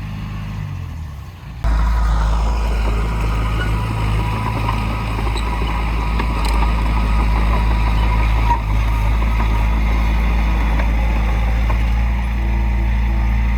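Heavy diesel engine of earthmoving machinery running steadily at a constant pace. About a second and a half in, the sound jumps abruptly louder and stays steady.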